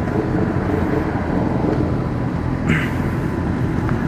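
Yamaha XJ6 F's inline-four engine running at low road speed through its stock exhaust, which has a drilled sport hole. There is a short hiss about three seconds in.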